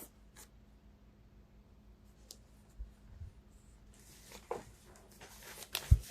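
Tarot cards being handled and shuffled: a few faint clicks at first, then from about four seconds in a run of quick rustling and clicks, with a sharp knock near the end.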